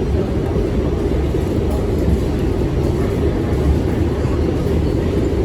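New York City subway train running between stations, heard from on board: a steady, loud low rumble of the car moving along the track.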